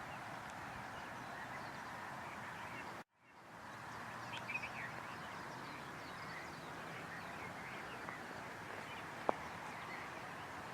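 Many birds calling and chirping together in a steady morning chorus. The sound cuts out for an instant about three seconds in and fades back up, and a single sharp click comes near the end.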